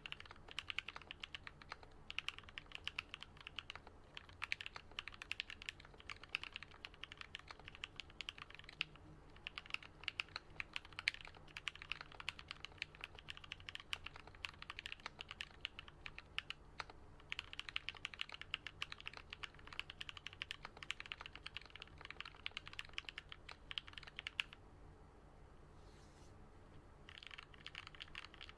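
Fast continuous typing on a Switch Couture Alice-layout custom mechanical keyboard with lubed, filmed Gateron Yellow linear switches and Artifact Bloom BoW keycaps, a dense run of deep keystrokes. It stops for a couple of seconds near the end, with one lone keystroke, then picks up again.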